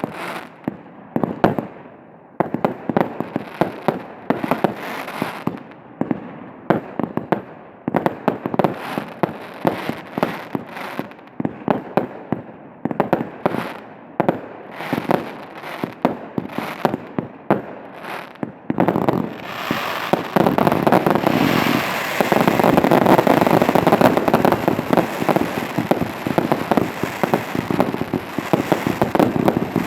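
Fireworks display: a quick series of separate bangs and reports, then about two-thirds of the way through a dense, continuous crackling barrage that is louder.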